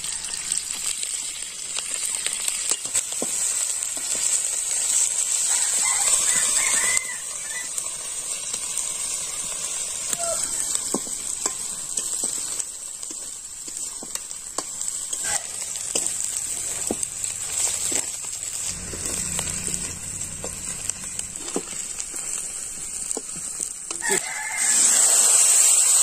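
Green chillies and onions sizzling in hot mustard oil in an aluminium kadai, with a metal spatula scraping and tapping the pan. A rooster crows in the background now and then.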